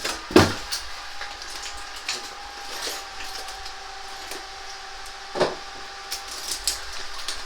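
Two sharp knocks, about half a second in and again about five seconds later, with scattered small clicks of tools being handled in between and a faint steady hum underneath. These are the sounds of work on a plasterboard wall while the holes for the mounting plate are being opened.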